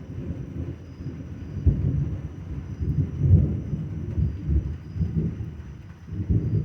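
Rolling thunder: a low rumble that swells and fades in uneven pulses, loudest about a second and a half and three seconds in, and swelling again near the end.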